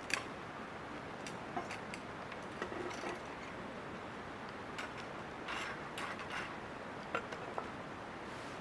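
Wood fire in a small fire stand crackling, with irregular sharp pops and snaps over a steady hiss.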